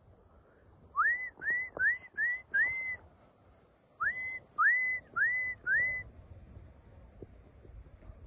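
A person whistling nine short notes, each sliding up and then holding, in a run of five and then a run of four.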